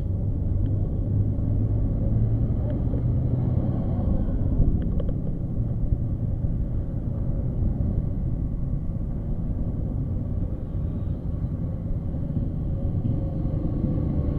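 Motorcycle engine running under way at a steady pace, with a dense low wind noise on the microphone.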